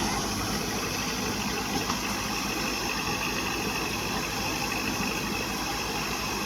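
Kubota MU4501 tractor's diesel engine running steadily, with an even pulsing beat.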